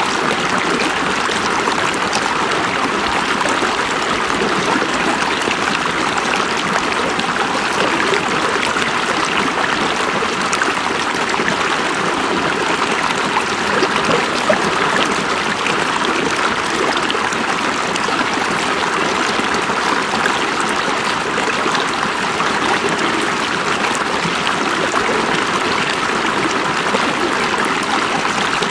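River water flowing over stones, a steady rushing and trickling.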